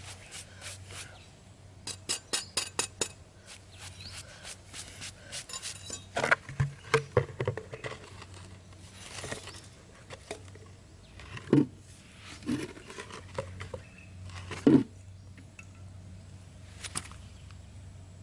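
Quick runs of light clicks and taps from hard objects being handled, then several heavier knocks.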